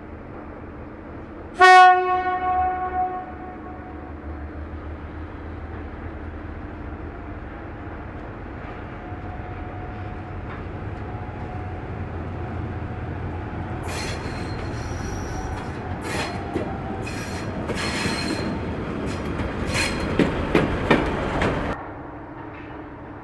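A train horn sounds one short blast, a single pitched note, about two seconds in over the low rumble of the train. Later the train's wheels clatter and squeal on the rails in quick sharp clicks. These stop suddenly near the end.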